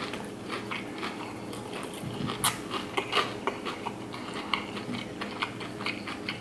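A person chewing fried breaded seafood with the mouth closed: irregular small clicks, several a second, over a steady low hum.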